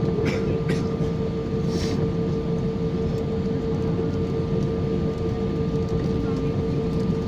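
Airliner cabin noise: a steady low rumble of the jet's engines and air systems, with a constant whine over it. A few brief rustles come in the first two seconds.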